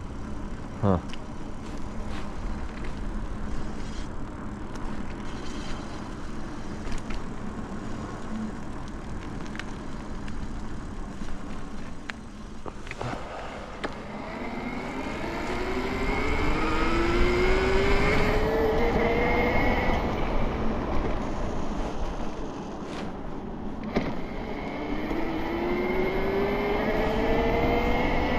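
72V BBSHD mid-drive e-bike motor whining and rising steadily in pitch as the bike accelerates, twice in the second half, over a steady rumble of wind and road noise.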